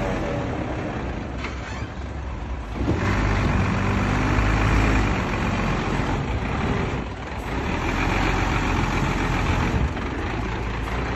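Heavy diesel construction machinery running, a steady low engine rumble that swells louder about three seconds in and again about eight seconds in.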